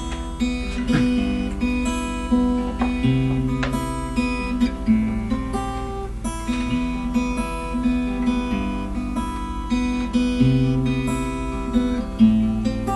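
Acoustic guitar playing an instrumental introduction, plucked and strummed chords at a steady pace over sustained bass notes.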